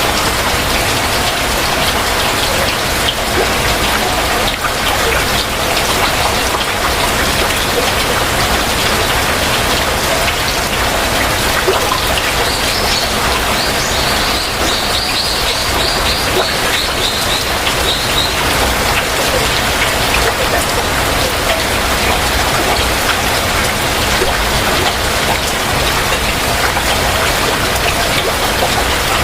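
Heavy rain falling steadily, with individual drop strikes close by. About halfway through, a bird gives a rapid series of short, high chirps lasting several seconds.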